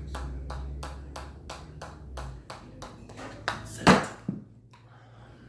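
Rhythmic hammer taps, about three a second, that stop a little over three seconds in, followed by one loud knock near four seconds and a smaller one after it: the run breaks down from going too fast.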